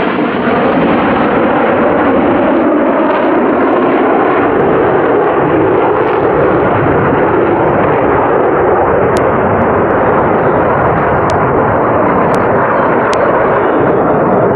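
Loud, steady jet engine noise from Blue Angels F/A-18 Hornet jets flying past.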